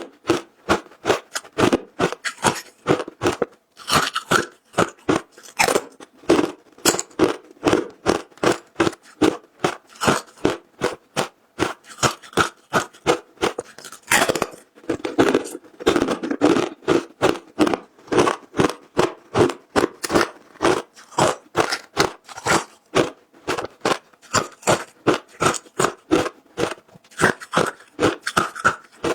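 Frozen matcha ice being bitten and chewed close to the microphone: a rapid, continuous series of sharp crunches, about two or three a second.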